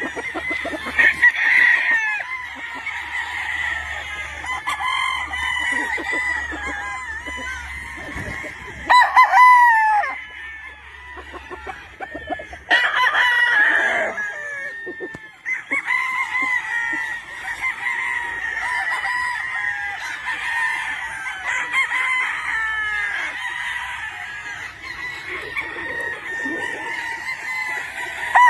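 Many gamefowl roosters crowing over and across one another, with hens and cocks clucking between the crows; louder crows stand out about 9 and 13 seconds in.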